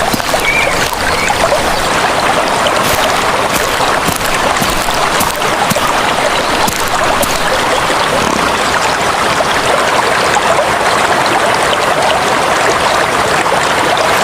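Steady rushing and splashing of water, broken by a few short, sharp splashes or clicks.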